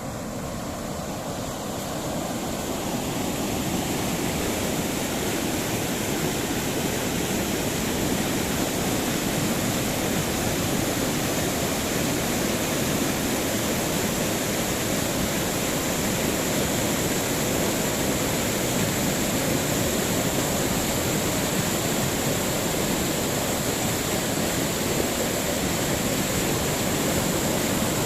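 River water pouring over a falls in flood: a steady, dense rushing that grows louder over the first few seconds and then holds.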